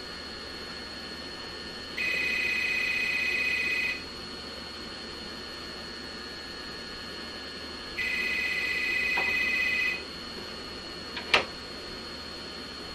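A telephone ringing twice, each ring a steady electronic trill lasting about two seconds with about four seconds between them, followed by a single sharp click near the end. A steady hiss with a faint high whine sits underneath.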